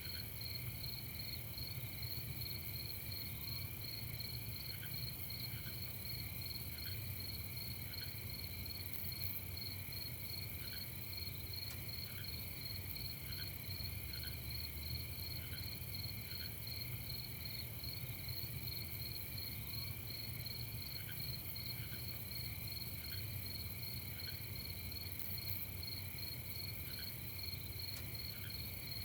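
Night insect chorus of crickets, a steady high trilling with a pulsing high note, over a low continuous rumble, with short chirps every second or so from a single insect or frog.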